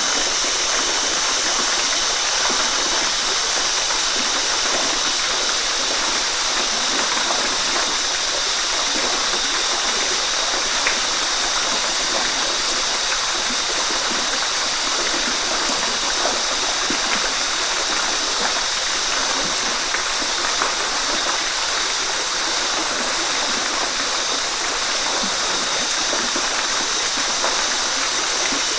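Waterfall: water falling and rushing steadily, with a constant hiss and no pauses.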